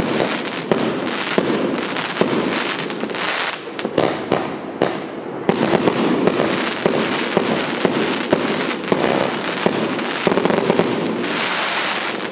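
80-shot compound firework cake firing: a rapid, continuous string of shots and bangs over a dense crackle.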